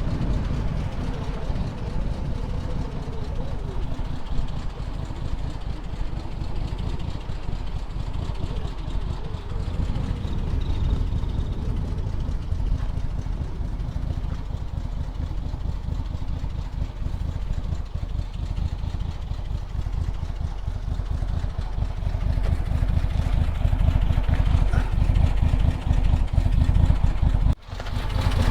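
The 1952 International cab-over truck's original, tuned-up engine idling steadily. It gets somewhat louder near the end, with a brief sharp drop just before the end.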